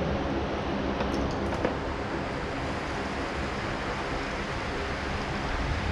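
Petrol being poured into the pit bike's fuel tank, a steady pouring rush: the bike's first fill of fuel.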